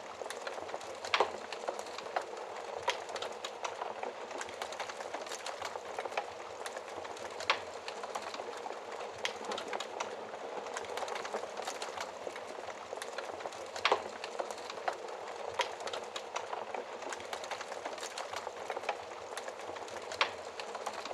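Wood fire crackling in a fireplace: a steady hiss with frequent small crackles and a few louder pops, about a second in, around seven and a half seconds, and near fourteen seconds.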